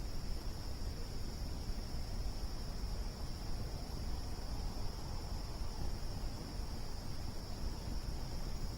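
Crickets chirring in a steady, high continuous drone, over a constant low rumbling noise.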